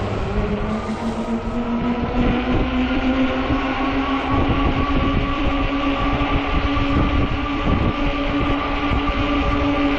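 Hub motor of a 48 V fat-tire e-bike whining under power, its pitch rising slowly as the bike gathers speed, over a steady rumble of tyres and wind.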